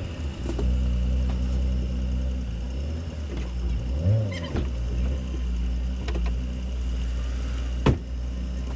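Jeep engine running at low speed off-road, a steady low rumble with a brief rev that rises and falls about four seconds in. A single sharp knock is heard near the end.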